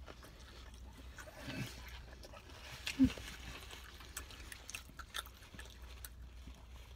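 A man chewing a mouthful of hot dog sandwich, with soft wet mouth clicks and smacks. A short low hum from his throat comes about three seconds in.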